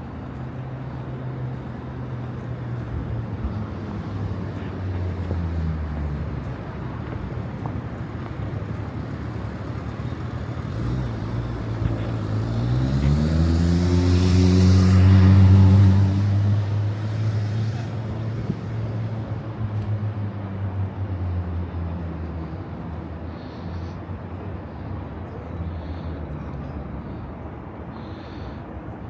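Road traffic with a motor vehicle's engine running low and steady, then revving up with a rising pitch about halfway through. It passes close, loudest a few seconds later, and fades away.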